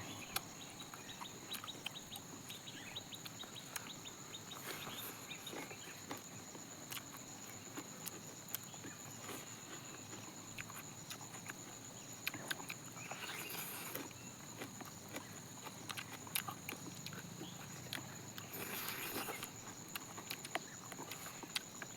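Close-up chewing and lip-smacking while eating fried chicken leg pieces: many small wet clicks with a few short crunchy bursts. A steady high insect drone runs underneath.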